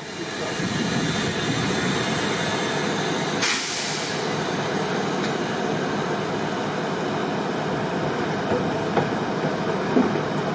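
Diesel-hauled train running, a steady rumbling rail noise that sets in within the first second, with a short burst of hiss about three and a half seconds in.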